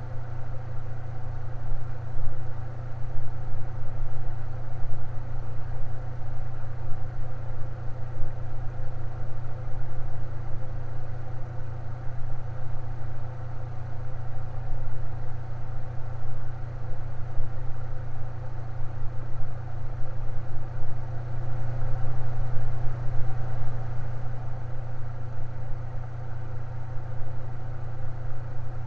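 Electric fan running steadily: a constant low motor hum with a fainter rush of air above it.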